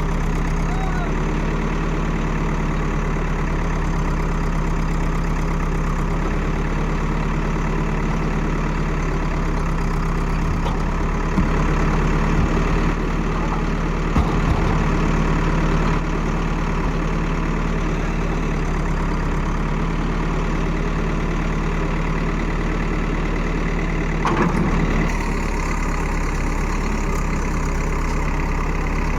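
A heavy engine running steadily at a constant pitch, with a few short knocks and clatters about a third of the way in and again later.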